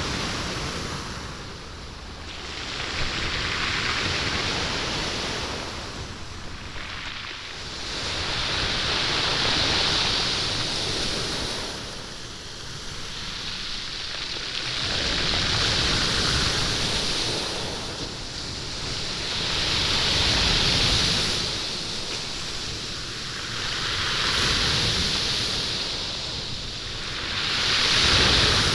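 Waves washing up a stony beach and drawing back, rolling and rattling the stones in the surf. The rush rises and falls about every four to six seconds.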